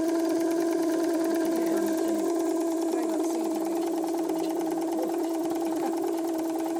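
Small steam mill engine running steadily under steam: a continuous hum with a fast, even mechanical clatter.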